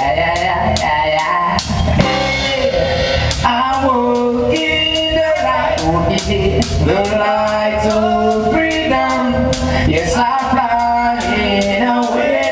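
A band playing a song: sung vocals over guitar and a steady drum beat with regular cymbal or hi-hat strokes.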